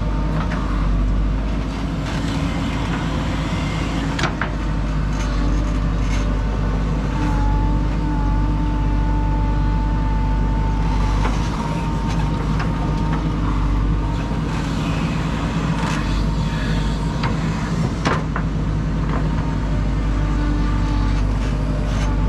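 JCB 3DX backhoe loader's diesel engine running steadily, with a steady whine above it that steps up in pitch about seven seconds in. A few sharp knocks come through, one about four seconds in and one near eighteen seconds.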